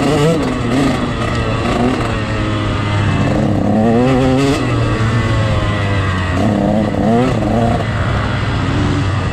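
Motocross dirt bike engines revving, the pitch rising and falling again and again as the throttle opens and closes, with more than one engine heard at once at times.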